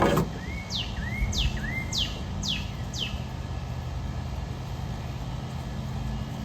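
A bird calls a quick run of about five sharp, high notes that fall in pitch, roughly two a second, over a steady low hum. A short knock sounds right at the start.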